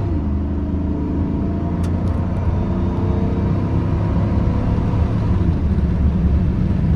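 2006 GMC Sierra 1500's 5.3L V8 pulling the truck along at road speed, its pitch rising gently as it accelerates, over steady tyre and road rumble.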